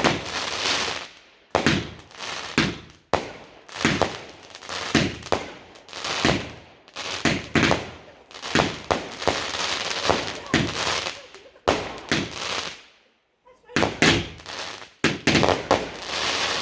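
Fireworks going off in a rapid series of sharp bangs, each trailing off in a crackle, with a brief pause about thirteen seconds in.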